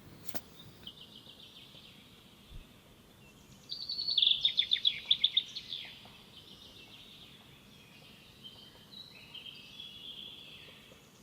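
Songbirds chirping and trilling: a bright run of rapid chirps starts a little under four seconds in and lasts about two seconds, with fainter scattered chirps before and after.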